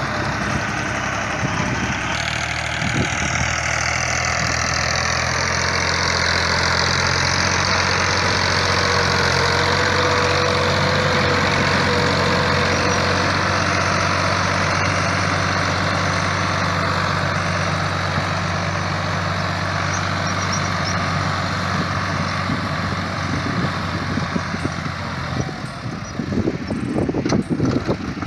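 New Holland Ghazi tractor's diesel engine running at a steady idle-like speed, with an even low hum. Near the end the steady note breaks up into rougher, uneven low noise.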